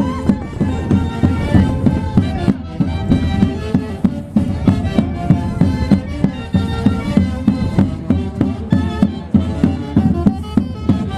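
Andean orquesta típica playing Santiago festival music: reed-led tune with saxophones and violins over a steady drum beat.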